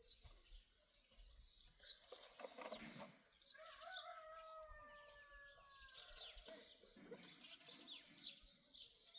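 Faint small birds chirping outdoors: short, sharp, falling chirps every second or two. In the middle comes a longer, steady call that falls slightly in pitch and lasts about two seconds.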